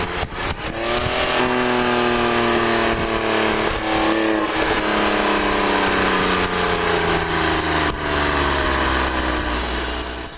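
Porsche 997 Carrera S's 3.8-litre flat-six running through a Fister aftermarket exhaust while driving. The revs climb briefly about a second in, then the engine note slowly falls in pitch, with wind and road noise underneath.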